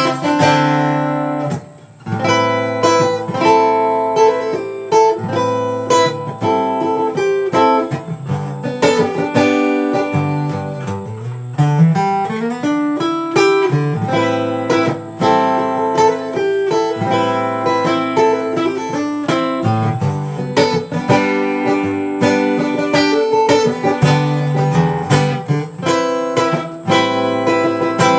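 Acoustic guitar playing an instrumental passage of a slow song, picked and strummed, with a short break about two seconds in and a bass run climbing near the middle.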